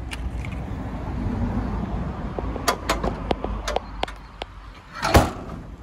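Mercedes Sprinter 2.1 CDI four-cylinder turbodiesel idling with a steady low rumble, which the dealer judges to sound very good. Several sharp clicks come around the middle, and a single loud thump about five seconds in.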